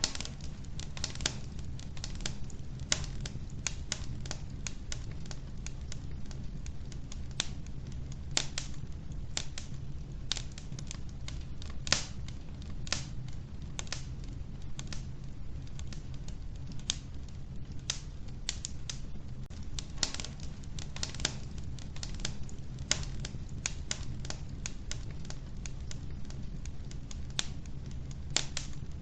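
Wood fire crackling in an old wood-burning stove: frequent irregular sharp pops and snaps from the burning logs over a steady low rumble of the flames.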